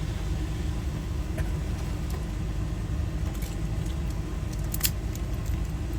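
Steady low rumble, like an idling engine, under a few light clicks of small lock parts being handled.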